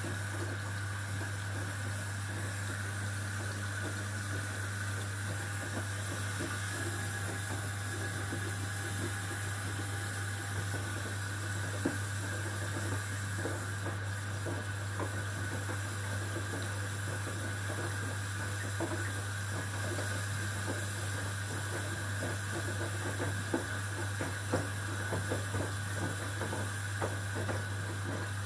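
Whirlpool FSCR90425 washing machine on a Synthetics 40°C programme, water hissing in steadily over a constant low hum, as when the machine fills, with faint sloshing in the drum.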